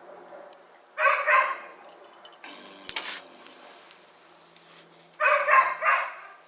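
A dog barking: two bouts of a couple of barks each, about four seconds apart, with a short sharp clatter between them.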